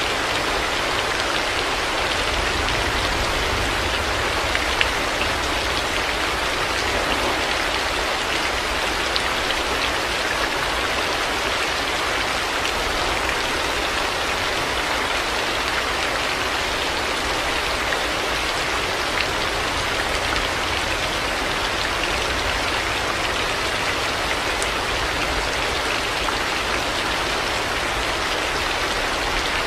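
Steady heavy rain falling, an even hiss with scattered drop ticks and a low rumble underneath.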